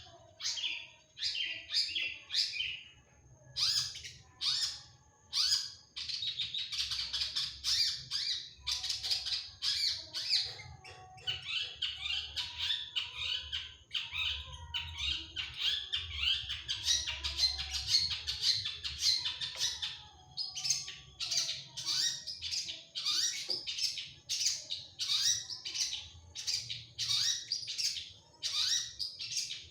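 Long-tailed shrike (cendet) singing a rapid, varied song packed with mimicked calls and quick bursts of notes, almost without stopping, with a few short breaks.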